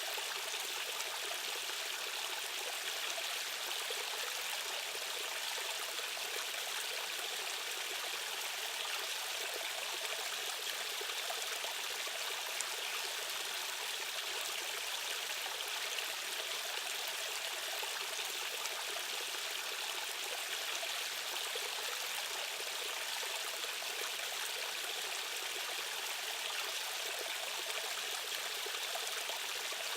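A stream's water rushing and babbling over rocks, a steady even wash with no changes.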